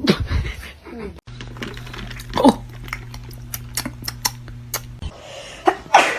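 Rapid, irregular sharp clicks and clinks, like hard objects tapping on a dish, over a steady low hum, followed by two loud sudden sounds near the end.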